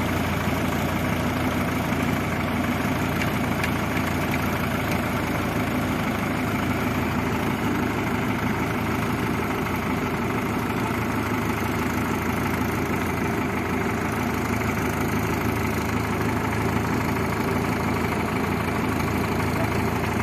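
Heavy diesel engine idling steadily, with an even, unchanging note.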